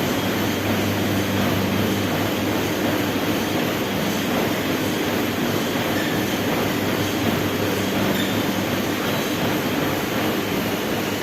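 Treadmill running steadily: a constant motor hum with belt and roller noise.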